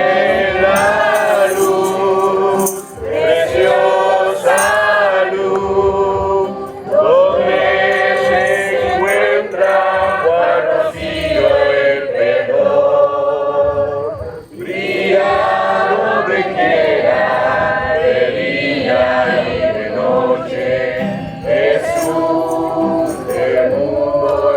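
A group of voices singing a Christian hymn together in sustained phrases, with short breaks between the lines.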